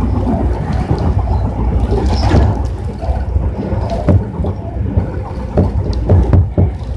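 Running sound from aboard a Tobu 60000 series electric train: a steady low rumble of wheels on rail, with irregular knocks from the wheels passing over rail joints, coming more often about four seconds in.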